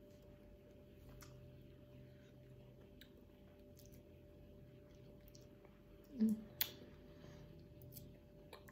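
Quiet chewing and wet mouth clicks of people eating pieces of sticky dried mango, with a brief hum-like voice sound and a sharp click about six seconds in.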